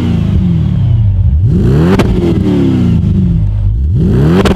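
Audi S7 twin-turbo 4.0 V8, swapped into a B5 Audi, being free-revved twice through a resonated Milltek RS4 catback with two mufflers. Each rev climbs quickly and falls back slowly to idle; the note is very tame for a 4.0.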